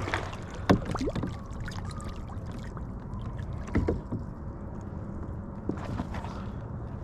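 Scattered knocks and bumps on a kayak, about five over several seconds, over a steady low background noise.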